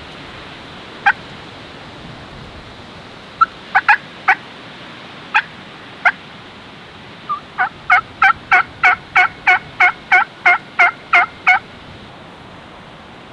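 Turkey yelping: a few scattered single clucks, then a run of about thirteen evenly spaced yelps, about three a second, each note breaking downward in pitch.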